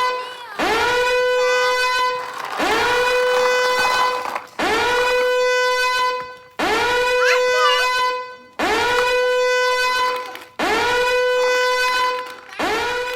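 A horn-like tone blown again and again, about once every two seconds; each one slides up in pitch, holds steady for nearly two seconds and cuts off.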